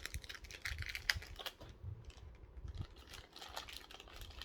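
Hands opening small accessory packaging: irregular light clicks and rustles, with a sharper click about a second in.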